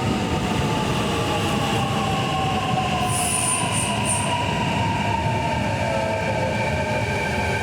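Kintetsu electric commuter train pulling into the station and braking, its motor whine slowly falling in pitch over a steady running rumble, with a few short high wheel or brake squeaks about three seconds in.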